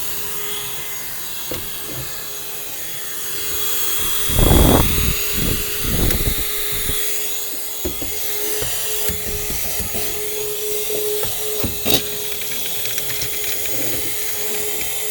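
Vacuum cleaner running steadily with a faint motor hum, its nozzle rubbing and knocking against the wooden parts of a spinet piano. The loudest knocks come about four and a half seconds in and again near twelve seconds.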